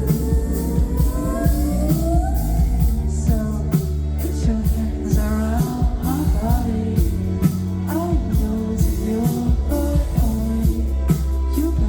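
Live electronic pop performance heard through a crowd recording: heavy, steady bass and a regular beat, with a singer's voice gliding upward in pitch over it.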